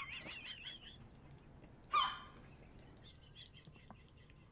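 Bird calls: a warbling high call at first, one loud harsh squawk about two seconds in, then faint chirps.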